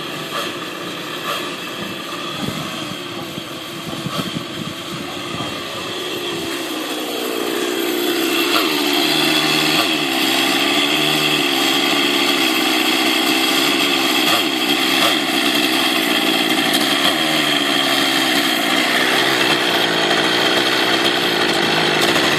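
Align T-Rex 700 Nitro RC helicopter's glow engine running at a high idle to warm up, below clutch engagement. It picks up speed and gets louder about a third of the way in, then holds steady with a slightly wavering pitch.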